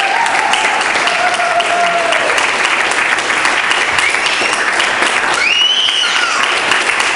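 Audience applauding steadily, with voices calling out over the clapping a couple of times.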